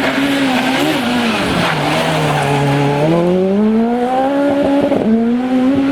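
Peugeot 206 Maxi Super 1600 rally car's 1.6-litre four-cylinder engine at full stage pace: the revs drop about a second and a half in, hold low for about a second, then climb steadily. A quick gearshift comes about five seconds in, after which the engine runs on at high revs.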